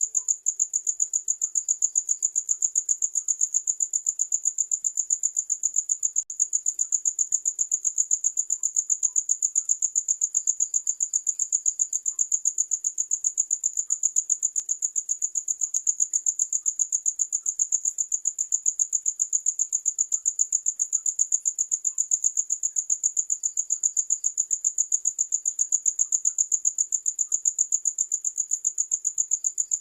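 Cricket chirping: one high-pitched trill repeated in rapid, even pulses without a break.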